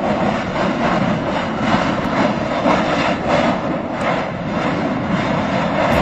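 Erupting volcano at Etna's Voragine crater: a steady, dense roar with a few faint short bursts as lava is thrown out.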